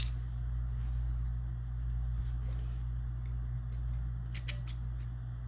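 A steady low hum with a few faint, light clicks of small metal shotgun action parts being handled, a small cluster of them a little past the middle.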